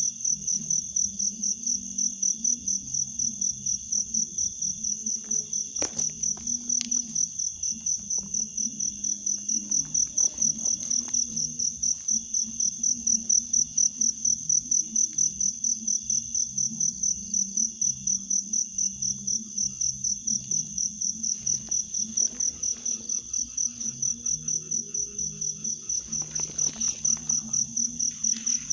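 Insects chirping in a loud, high, fast-pulsing trill that holds steady throughout, over a lower continuous drone.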